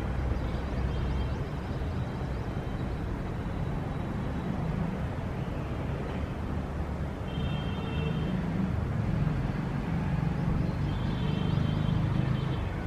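City ambience: a steady low rumble of road traffic, with high chirps, likely birds, about midway through and again near the end.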